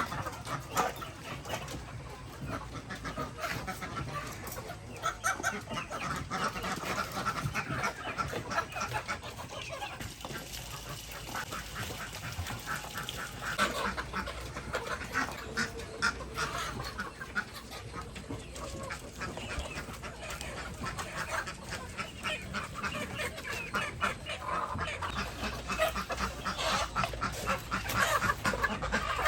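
A flock of chickens clucking and calling, with many short clicks and taps mixed in.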